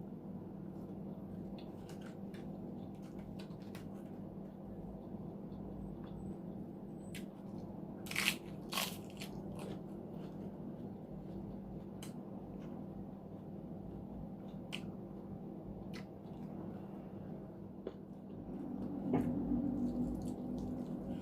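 Close-miked eating sounds: chewing and biting with scattered crisp clicks and two loud crunches about eight seconds in, over a steady low hum.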